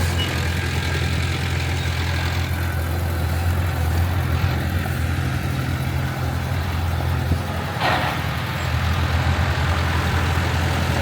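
Heavy diesel engine of earthmoving machinery running steadily with a deep, even drone. A brief hiss cuts in about eight seconds in.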